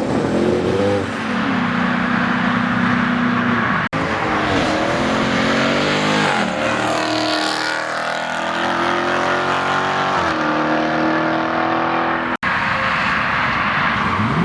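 Car engines revving and accelerating hard, the pitch holding, rising and falling as they pull away. The sound breaks off sharply for an instant twice.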